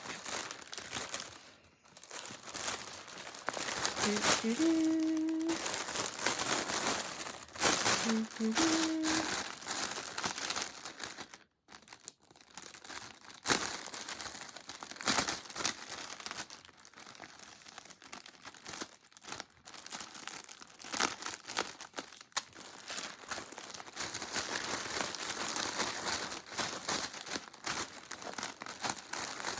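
A bag crinkling and rustling continuously as skeins of yarn are pushed and squeezed into it to make them fit.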